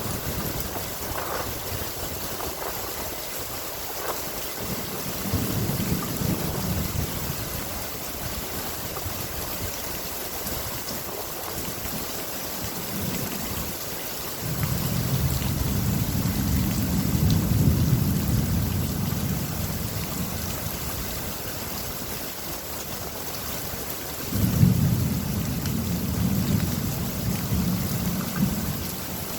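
Steady rain hissing, with low rolling thunder: a short rumble about five seconds in, a long rumble from about halfway, and a sharper crack-and-rumble near the end.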